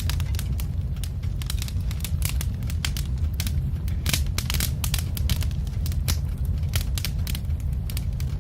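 Log fire crackling, with irregular sharp pops over a steady low rumble.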